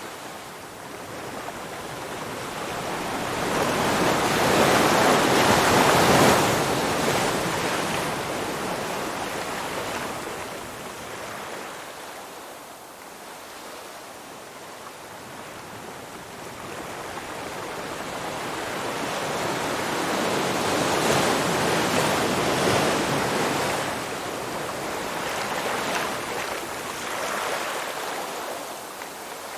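Surf: waves washing in as a rushing noise that swells and fades twice, loudest about six seconds in and again a little past twenty seconds.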